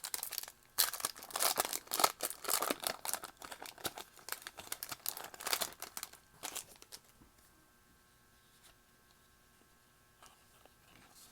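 The wrapper of a 2020 Bowman baseball card pack being torn open and crinkled in quick, sharp crackles for about seven seconds, then only a faint steady hum.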